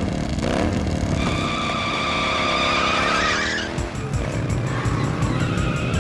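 Cartoon sound effects of motorcycle engines revving, over background music. About four seconds in, the sound shifts to a lower rumble.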